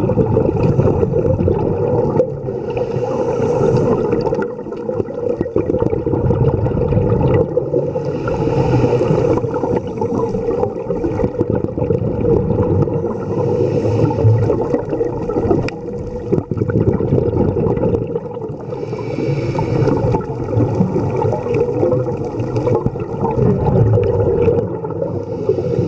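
Underwater sound picked up through a dive camera's housing: a steady muffled rush of water, with a scuba diver's exhaled bubbles gurgling up in bursts every five or six seconds.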